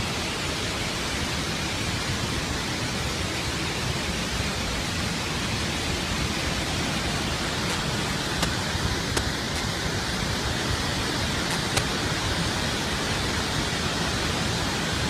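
Massive floodwater discharge from Tarbela Dam's emergency spillway: a steady, unbroken rushing of water. A few faint clicks about halfway through.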